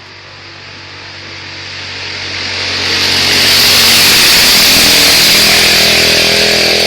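A vehicle engine getting steadily louder as it approaches over about three seconds, then running loud and steady at close range.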